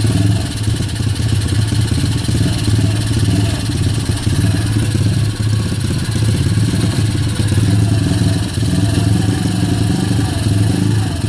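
Kayo pit bike's YX 140 single-cylinder four-stroke engine running at a fixed throttle, its revs hunting up and down between about 1500 and 2500 rpm instead of holding steady.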